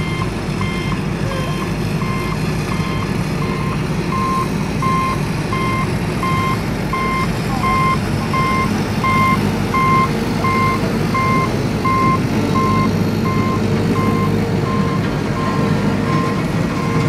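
A truck's reversing alarm beeping steadily, about two short beeps a second, over the continuous low rumble of the truck's engine.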